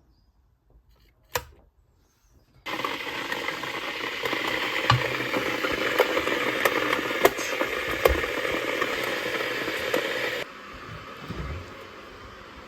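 Kettle of water boiling for tea: a steady hissing and bubbling with scattered clicks. It starts suddenly a few seconds in and cuts off suddenly near the end, after a single sharp click near the start.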